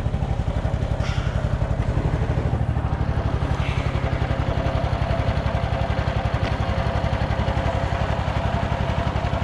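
Boat engine running steadily with an even, rapid pulse.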